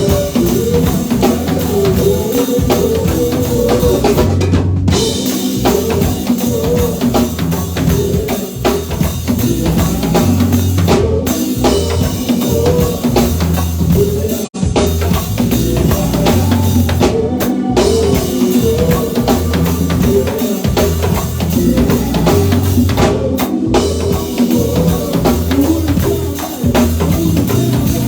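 A live band playing an instrumental passage, with drum kit and bass line prominent over a steady beat; the sound cuts out for an instant about halfway through.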